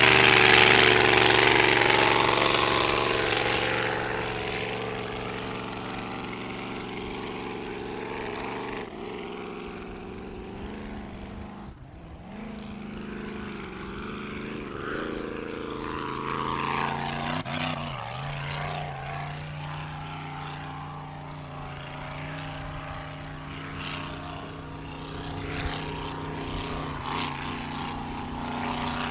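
Grand Prix hydroplane's racing engine running at speed, loudest in the first few seconds as the boat passes, then a steadier, more distant drone. Its pitch wavers up and down midway as the throttle changes.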